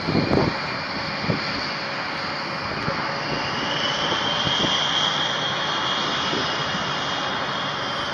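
Jet aircraft engines running: a steady rushing roar with a high whine that comes in about three seconds in and holds, and a few low buffets of wind on the microphone early on.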